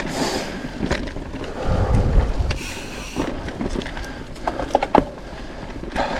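Mountain bike rolling along a dirt forest trail: tyre noise with irregular clatter and knocks from the bike over bumps, and wind buffeting the microphone.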